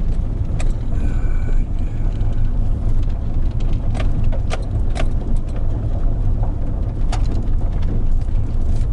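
Car driving: a steady, heavy low rumble of engine and road noise, with a few sharp clicks here and there.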